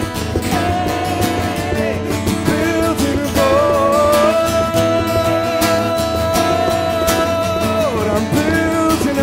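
Live music from the closing stretch of a song, with long held, wavering melody notes over a steady strummed accompaniment.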